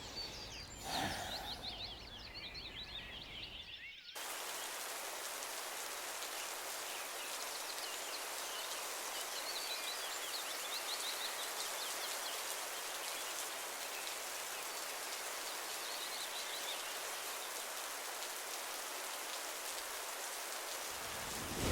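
Steady rain falling on woodland, a dense even hiss that sets in abruptly about four seconds in. Faint bird chirps are heard before and through it.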